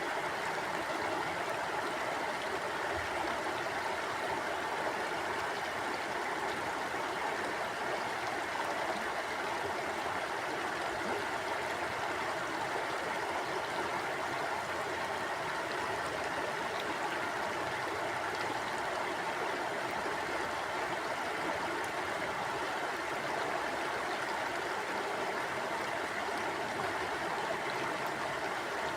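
Mountain stream flowing over rocks: a steady, even rush of water with no breaks or changes.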